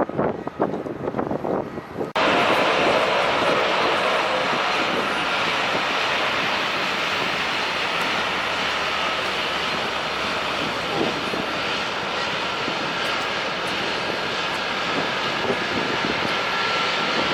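Wind buffeting the microphone, then, after an abrupt cut about two seconds in, the steady noise of an airliner's engines at takeoff power.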